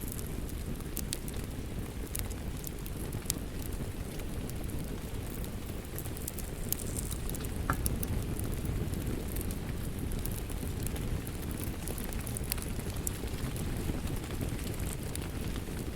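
Wood fire crackling, with scattered sharp pops, over a steady wash of rain.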